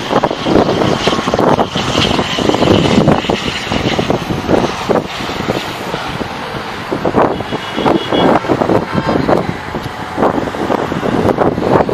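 Heavy wind buffeting on the microphone over a loud, steady engine rumble from traffic or aircraft. A brief high-pitched tone sounds about two-thirds of the way through.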